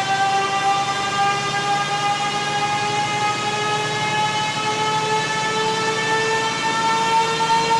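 Volvo FM truck's 12-litre diesel under full load on a chassis dynamometer during a baseline pull on stock software, with a whine that climbs slowly and steadily in pitch as the revs rise, over a low rumble.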